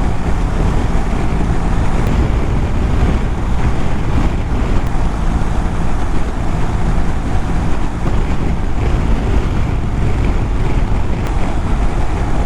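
Steady wind rush and buffeting from a strong crosswind over a BMW GS boxer-twin motorcycle cruising at about 100 km/h in sixth gear, with the engine and road noise running underneath.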